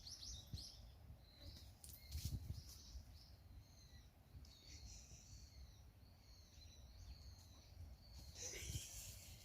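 Faint chirping of small birds: short, high calls scattered through, some gliding briefly in pitch. There is a soft low thump about two seconds in and another near the end.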